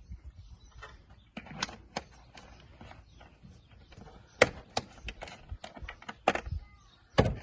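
Scattered clicks and knocks of things being handled, with a sharp knock about halfway through and a heavier thump near the end.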